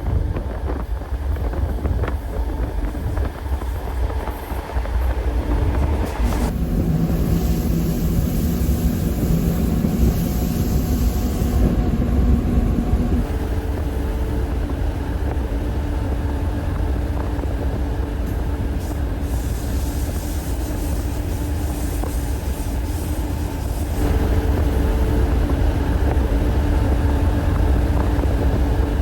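Passenger train running along the track: a steady low rumble with a droning hum that shifts in pitch a few times, and occasional clicks from the wheels.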